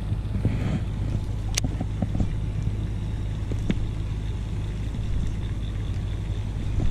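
Wind buffeting the microphone: a steady low rumble, with a few faint sharp clicks about one and a half and three and a half seconds in.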